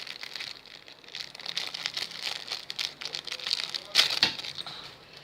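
Plastic packaging crinkling irregularly as it is handled, with a sharp click about four seconds in.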